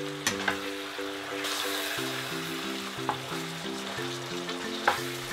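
Minced chicken with basil frying in a nonstick pan, a steady sizzle as a plastic spatula stirs it, with a few sharp knocks of the spatula against the pan. Light marimba background music plays over it.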